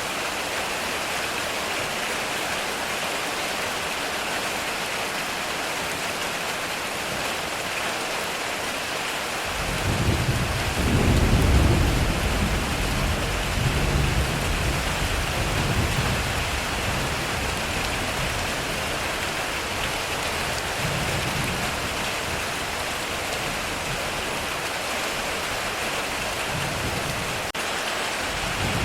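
Heavy rain falling steadily on a metal roof. About a third of the way in, a low roll of thunder breaks in, swells for a few seconds, rumbles on and fades back under the rain.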